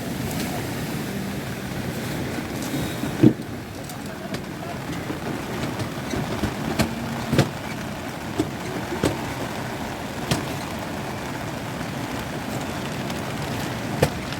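Steady noise of surf and wind at a stormy sea, with several sharp knocks scattered through it, the loudest about three seconds in.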